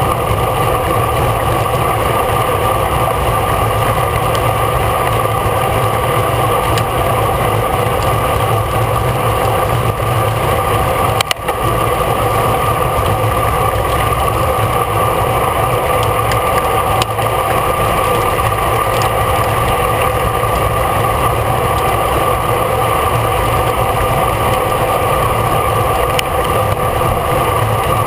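Steady rush of wind over the microphone of a camera riding on a racing bicycle at speed, with a constant low rumble underneath.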